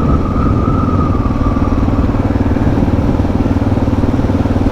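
Suzuki DR650's single-cylinder engine running at low road speed with an even pulse. A faint high whine fades out about two seconds in.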